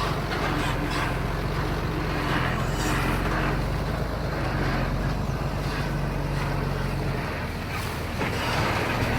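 Diesel engine of heavy earthmoving machinery running at a steady low note, with rough rattling noise swelling and fading over it; the engine note drops about seven seconds in.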